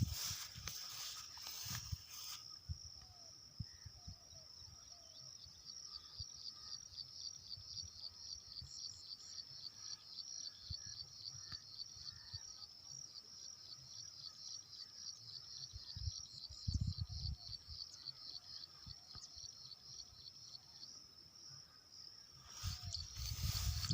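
Crickets chirping in a steady, high-pitched chorus with a fast pulse, over scattered low thumps.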